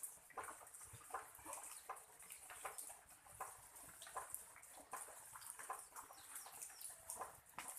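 Rain dripping and pattering, faint, as a scatter of irregular light ticks and taps.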